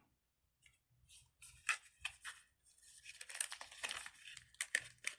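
Irregular rustling, scraping and clicking of fidget toys being handled, growing busier about three seconds in.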